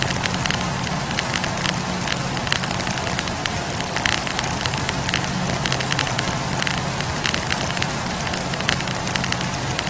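Wood campfire burning, the firewood crackling with frequent irregular sharp pops over a steady hiss and low rush of the flames.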